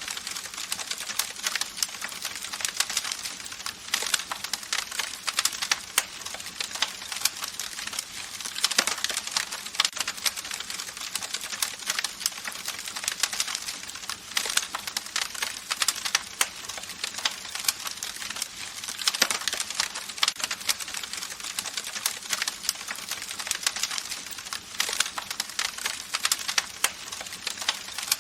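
Campfire burning with dense, irregular crackling and popping over a soft steady hiss.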